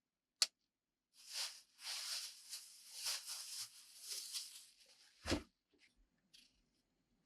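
A sharp click, then a few seconds of irregular rustling and scraping, ending in one dull thump, in a small enclosed space.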